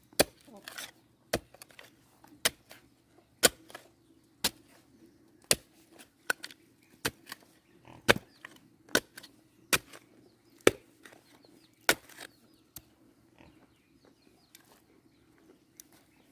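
Repeated sharp strikes of a tool on wood or bamboo, about one a second and sometimes in quick pairs, stopping about 13 seconds in.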